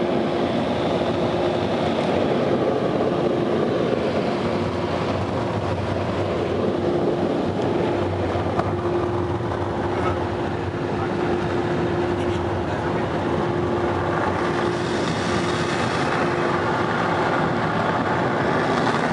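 Automatic car wash air dryers blowing steadily on the car, heard from inside the cabin: a continuous rush of air with a steady hum underneath.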